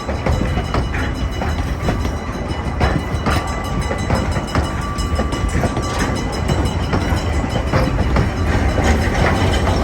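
Narrow-gauge train rolling along with a constant low rumble and irregular clicking of wheels over the rail joints. A thin steady squeal, typical of wheels on the rails, holds for a few seconds from about three seconds in.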